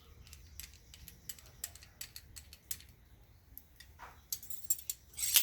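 Metal parts of a T-bar slide hammer dent puller being handled: scattered light clicks and rattles, growing denser and louder near the end.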